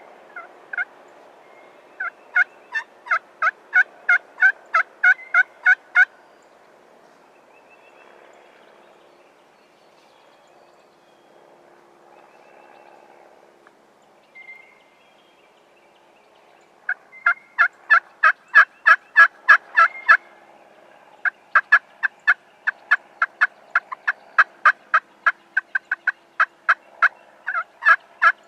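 Turkey yelping: three long runs of short, evenly spaced yelps, about three a second, with a quiet stretch between the first run and the last two.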